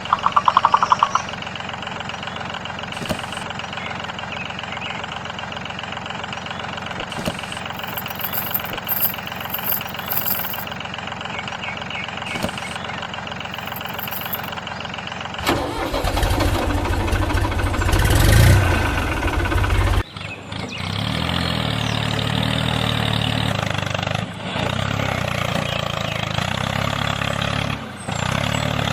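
Engine-like motor sound running steadily. About halfway through it turns abruptly into a louder, deeper run lasting a few seconds, then cuts to another steady engine sound.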